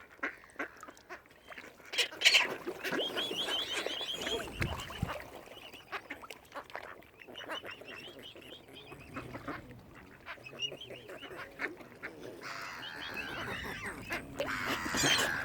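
Waterfowl calling: runs of short, quickly repeated high calls, loudest a couple of seconds in and again near the end.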